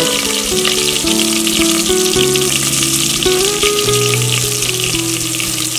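Desi ghee sizzling in a pressure cooker around whole peeled turnips, a dense high crackle, under background music of held notes that step from pitch to pitch.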